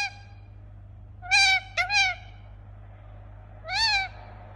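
Indian ringneck parakeet giving short, loud calls that rise and fall in pitch: one about a second in, two in quick succession near two seconds, and one near four seconds.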